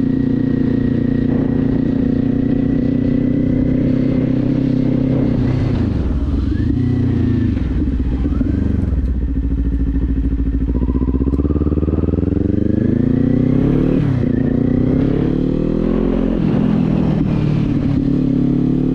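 Kawasaki Z400 parallel-twin engine under way: steady cruising revs at first, which drop off about five or six seconds in as the bike slows. From about ten seconds in it accelerates through the gears, the pitch climbing and falling back at two upshifts near the end.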